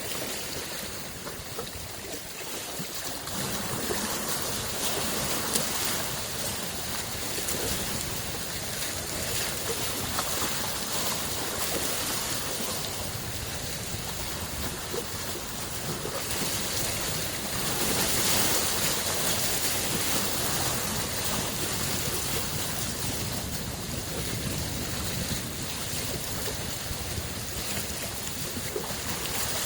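Small lake waves washing ashore in a continuous rush that swells and ebbs, growing louder about two-thirds of the way through.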